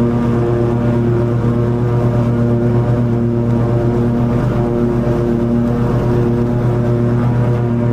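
Toro TimeCutter 50-inch zero-turn mower running steadily while cutting long grass, a loud continuous engine drone with a slight waver in its higher tones.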